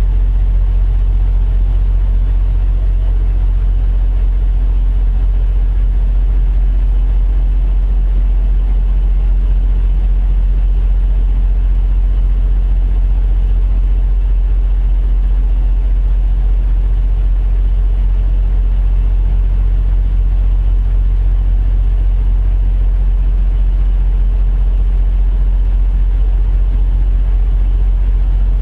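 Semi-truck diesel engine idling steadily: a low, even rumble that does not change.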